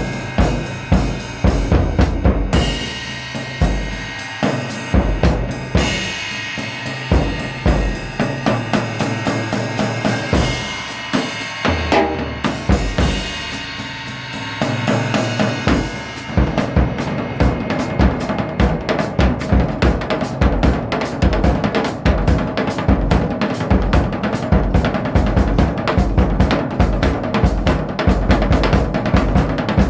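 Drum kit playing, with kick, snare and cymbals; the hits are spaced out with some held tones at first, then from about halfway through become a fast, continuous, driving beat.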